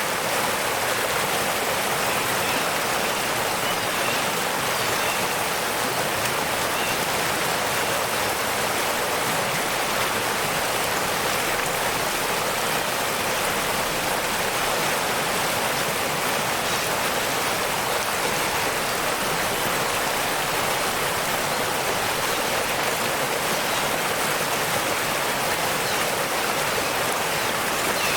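Waterfall: a steady rush of falling and running water.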